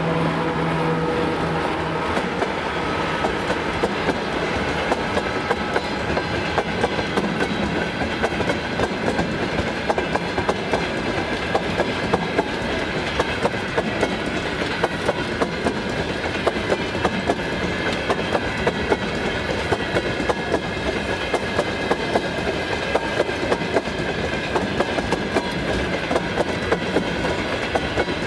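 Freight train of tank cars rolling past, its wheels clicking steadily over the rail joints.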